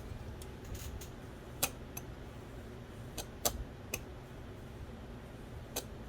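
About six sharp little clicks and taps at irregular spacing, over a steady low hum: small parts of an Original Xbox's Philips DVD drive being handled during disassembly.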